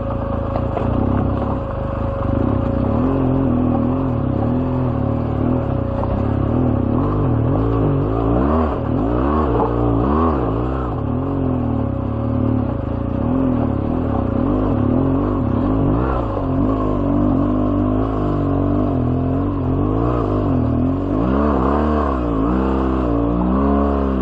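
BMW R1200GS boxer-twin engine pulling up a steep rocky trail, the revs rising and falling again and again as the throttle is worked over the rocks.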